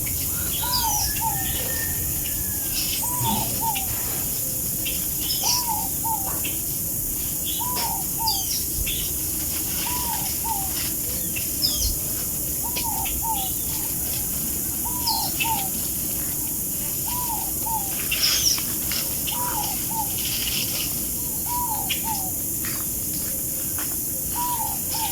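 Birdsong: one bird repeats a short two-note call about every one and a half seconds, while other birds chirp higher in the background over a steady hiss.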